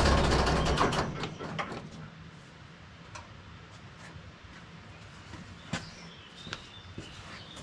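Fordson Major tractor engine running, then shut off and dying away over the first second or so. After that only a few light clicks and knocks, with faint bird chirps near the end.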